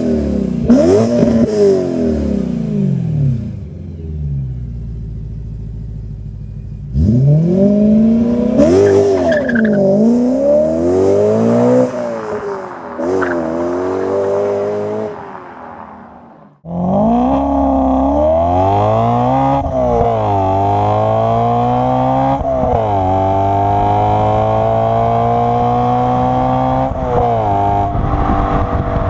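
BMW M3 E92's V8 running through an Akrapovic Evolution Line titanium exhaust. It revs up and down in short blips, settles lower for a few seconds, then revs again. After a sudden break about halfway it accelerates hard, the pitch climbing steadily with a quick dip at each of several gear changes.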